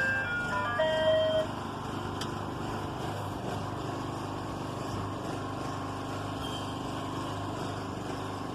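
Ice cream truck's chime tune plays its last few notes and stops about a second and a half in, leaving the truck's engine idling steadily.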